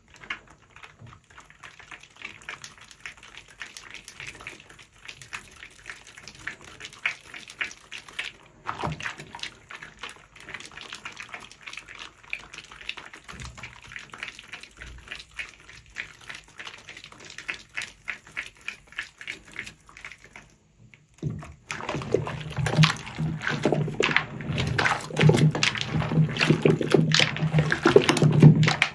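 Wet, soapy sponge squelching and foam crackling with water. A brief pause comes about two-thirds through, then a louder, fuller squishing takes over.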